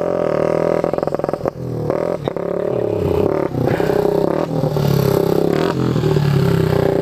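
Small motorcycle engine running and revving up and down, with short drops in the throttle about one and a half and three and a half seconds in.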